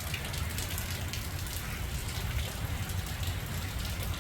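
Steady rain falling, with many individual drops ticking close by and a low steady rumble underneath.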